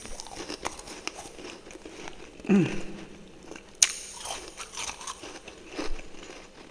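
Close-up chewing and crunching of refrozen freezer frost: scattered crisp crackles and bites, with one sharp crack just before four seconds in. A short falling voiced sound, like a hum, comes about two and a half seconds in.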